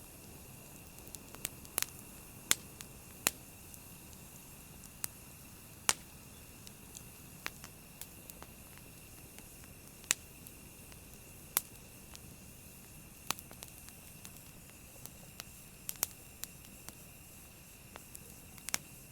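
Wood campfire crackling: sharp, irregular pops about once a second over a steady low hiss.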